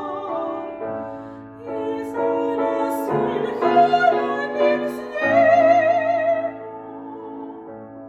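Soprano singing a Russian art song with wide vibrato over piano accompaniment. The voice stops about six and a half seconds in, and the piano goes on alone, more softly.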